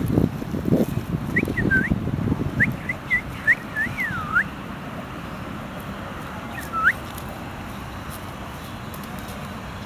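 Macaw parrot giving a quick run of short whistled chirps and swooping glides, then one more swoop a couple of seconds later. A low rumble sounds under the first few seconds.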